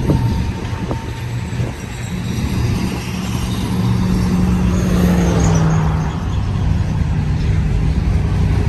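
A vehicle passing close by over a steady low rumble, its engine note dropping in pitch as it goes past about five to six seconds in.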